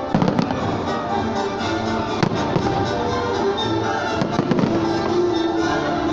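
Fireworks salute bursting with sharp bangs: a cluster just after the start, one at about two seconds, and several more around four seconds, over continuous loud music.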